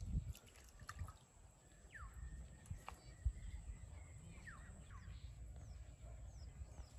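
Faint birdsong: several short falling whistled calls, with a few quicker, higher ones near the end, over a low steady rumble. A few soft knocks, one sharper about three seconds in.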